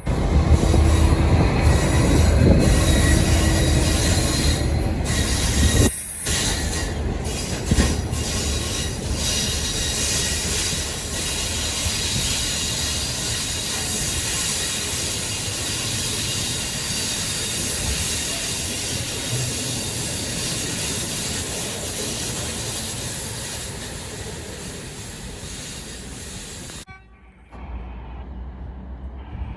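A train passing close by: a heavy low rumble for the first few seconds, then a long steady run of wheels on rail with a high squeal, easing off before the sound drops away suddenly near the end.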